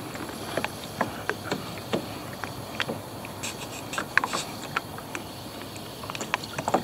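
Water lapping and splashing against a kayak hull, with irregular small knocks and clicks.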